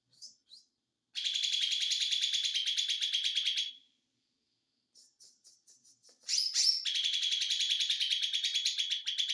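Cucak ijo mini, a small green leafbird, singing in the buzzy 'konslet' style: two long, rapid, rattling trills of several seconds each, the first about a second in and the second just past the middle. Between them come short chirps and a quick falling note.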